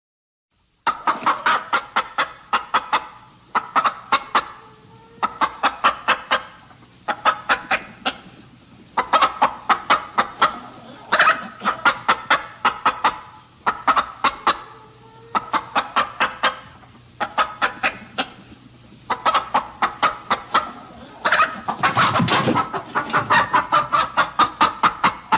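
Chickens clucking in rapid runs of short calls, about a dozen runs each a second or two long with brief pauses between, starting about a second in.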